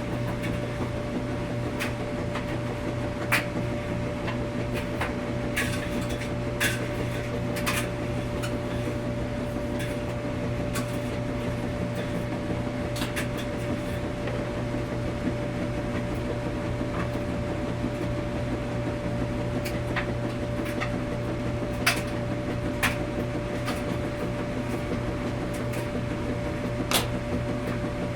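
Laundromat washing machine running with a steady hum and a constant tone, with irregular light clicks and knocks scattered throughout.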